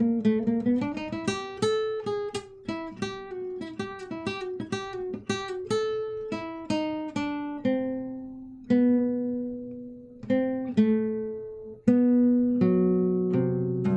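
Solo guitar played unaccompanied: a quick run of picked single notes that slows to a few held, ringing notes, then a chord struck about twelve seconds in and left to ring.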